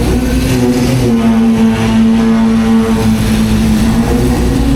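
Nissan 180SX's engine and exhaust running loud at held, raised revs, the pitch climbing a little in the middle and easing back down near the end; it sounds so wild.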